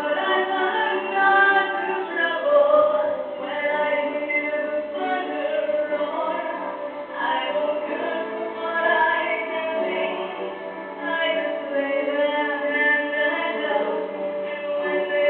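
A young woman's solo voice singing a musical-theatre song over accompaniment, the sound dull at the top as from an old, low-quality recording.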